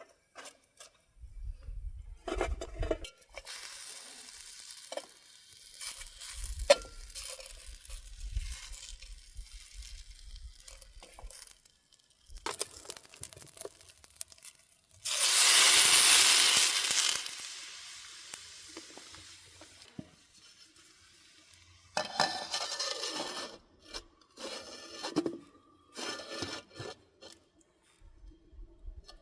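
Camp cooking: a pan and utensils clattering and being stirred, with a loud hiss of food sizzling that starts suddenly about halfway through and dies down over a few seconds.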